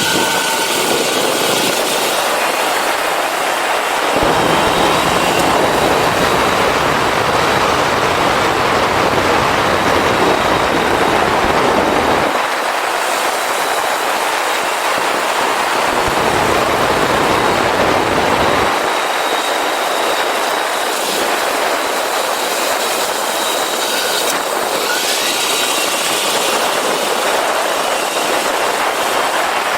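Motorcycle riding at speed: wind rushing over the microphone with the engine running underneath, a deeper rumble coming in for two stretches, the longer one from about four seconds in.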